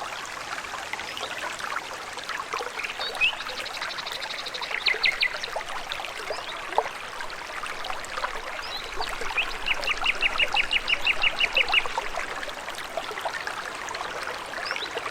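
A small stream trickling steadily, with several songbirds singing over it. In the second half, one bird gives a rapid run of evenly repeated notes lasting a couple of seconds.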